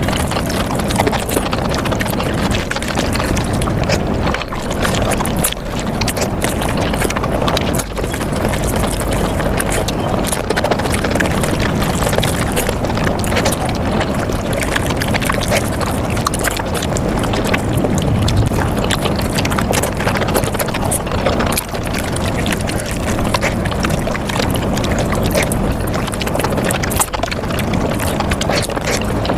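Mukbang eating sounds of palak paneer sped up five times: chewing and mouth smacking run together into a dense, continuous stream of rapid wet clicks.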